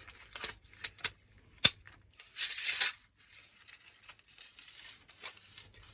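Clicks and scrapes of a lawnmower's coiled recoil starter spring being worked back into its pull-cord housing by hand, with one sharp click about a second and a half in and a brief scraping rustle just after.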